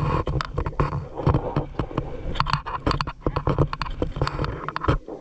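Water splashing and sloshing in quick, irregular bursts while a fishing net is worked through a shallow ditch.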